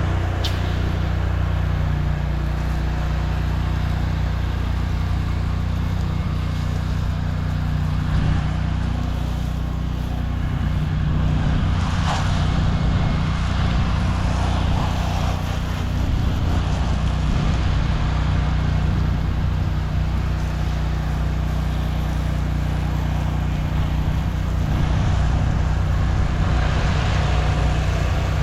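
Pressure washer engine running steadily, with the hiss of water spray that swells briefly a couple of times.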